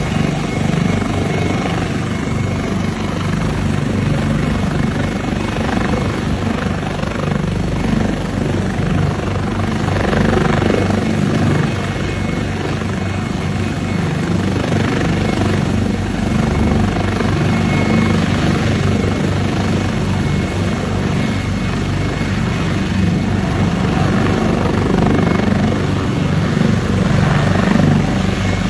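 AgustaWestland AW139 twin-turbine helicopter running: a steady rotor and turbine noise, heaviest in the low end, that holds at a loud, even level.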